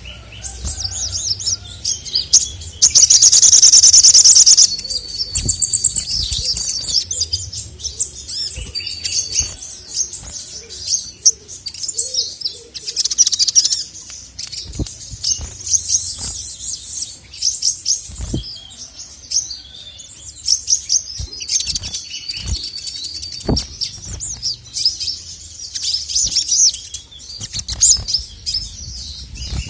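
Male sogok ontong (sogon), a small nectar-feeding songbird, singing constantly in fast, high-pitched chirping phrases, loudest in a dense burst about three to four seconds in. A few short dull thumps are scattered through the song.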